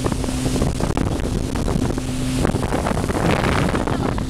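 Motor launch running under way on the river, a steady engine hum mixed with water and wind noise buffeting the microphone.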